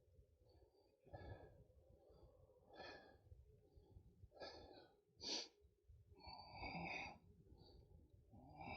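Near silence, with faint breathing now and then.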